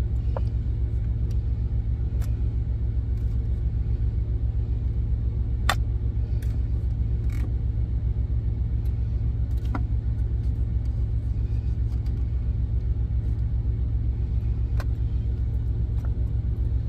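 Steady low rumble of an idling semi truck's diesel engine, with a few scattered light clicks and taps from a spoon scooping diced tomatoes.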